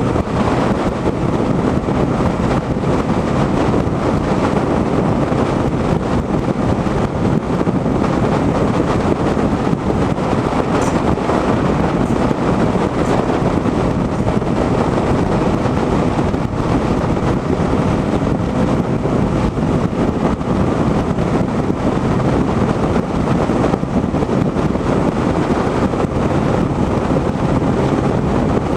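Motorcycle cruising at a steady speed: wind rushing over the microphone with a constant drone of engine and road underneath.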